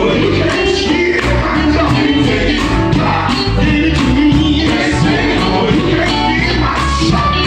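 A gospel group singing with a full band: voices over steady bass and drums.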